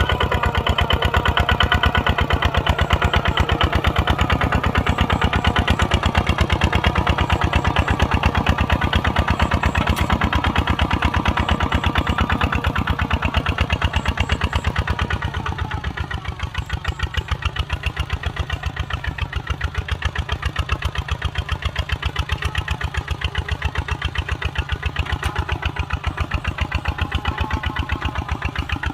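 Kubota RT140 single-cylinder diesel engine running steadily with a rapid, even firing beat. It becomes somewhat quieter and duller about halfway through.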